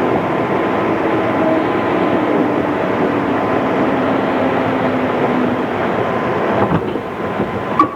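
JR East 211 series electric train with internal-fan traction motors, running and heard from inside the car: a steady rumble of wheels and motors. A faint tone slides slowly lower over the first five seconds, and a few sharp knocks come near the end.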